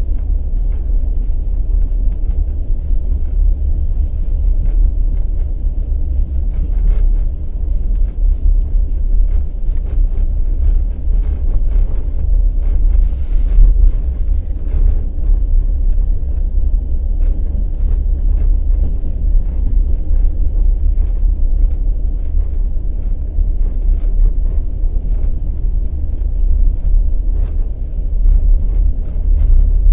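Passenger train running at speed: a steady low rumble with faint clicks of the wheels knocking over the rails.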